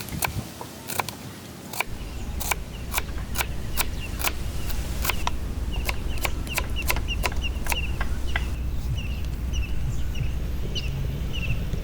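A run of sharp, irregular knocks or taps, then short high chirps repeating about twice a second from a bird.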